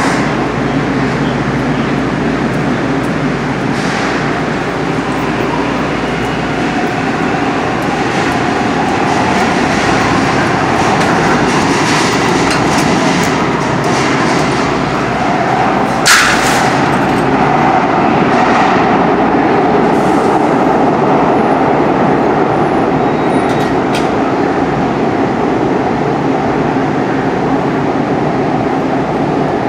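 Light-rail train running in a subway tunnel: a steady rumble with a faint even hum, getting a little louder about eight seconds in, and one sharp knock about sixteen seconds in.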